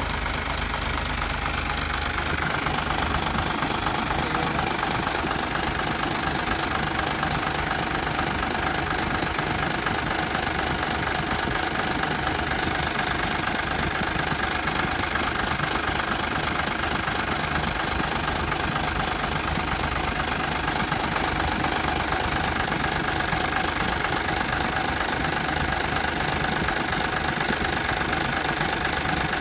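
Truck engine idling steadily, with a steady whine running over it.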